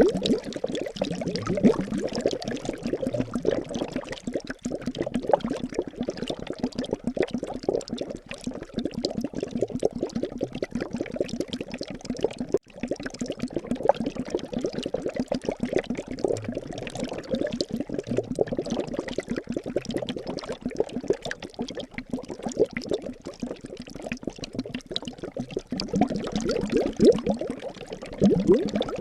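Liquid bubbling steadily: a dense, continuous stream of small bubbles, each a short rising blip.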